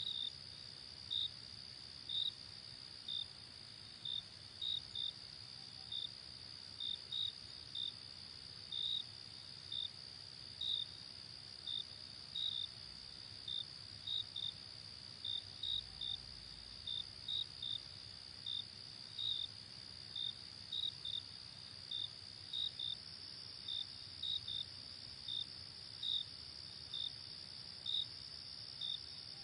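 Night crickets chirping: short high chirps about one to two a second over a steady high-pitched insect trill.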